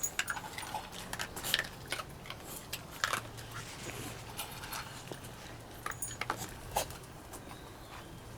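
A dog breathing noisily, with short snorting sounds at irregular intervals; the owner wonders whether it is kennel cough.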